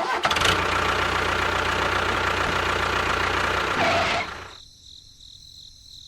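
Engine running steadily with a low, even chug, cutting off about four seconds in and leaving only a faint high steady whine.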